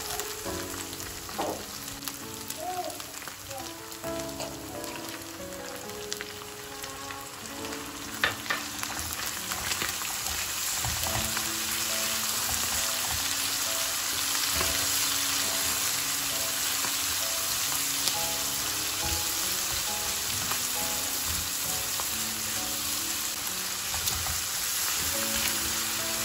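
Ground meat and chopped peppers sizzling in a hot non-stick frying pan while being stirred with a wooden spatula. The sizzle grows louder from about ten seconds in, as diced tomatoes and red pepper fry with the meat, with a couple of sharp knocks shortly before. Background music plays quietly underneath.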